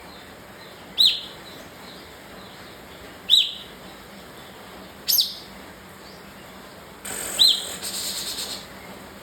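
Kapas tembak bulbul giving short, sharp calls, four in all about two seconds apart, in the agitated 'emosi' state, with a harsh rustling rattle near the end.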